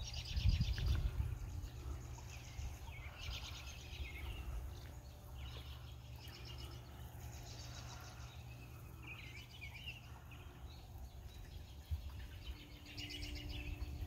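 Songbirds singing, short rapid trilled phrases repeating every few seconds, over a steady low rumble.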